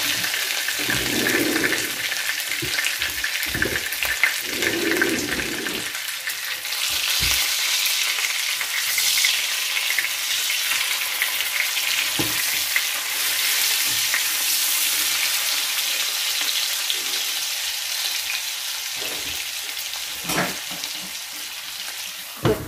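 White cabbage wedges frying in a pan with a steady sizzle, with a few knocks and scrapes of a spatula as they are turned.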